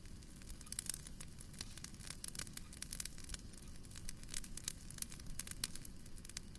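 Wood fire crackling in a fireplace: a dense, irregular run of sharp pops and snaps over a low steady rumble.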